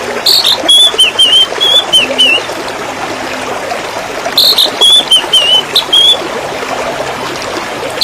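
Water trickling and splashing steadily, with a songbird singing two short warbled phrases of wavering high notes, one near the start and another about four and a half seconds in.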